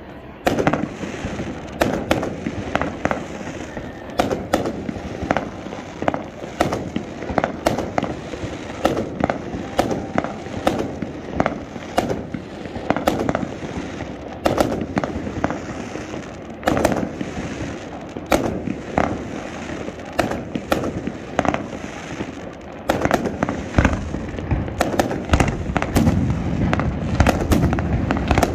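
Aerial firework display: a continuous run of shell bursts, sharp bangs one after another. In the last five seconds or so they come thicker and heavier into a dense barrage.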